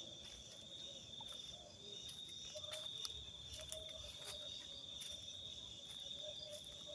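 Night insects trilling in one steady, unbroken high note, with faint scattered clicks.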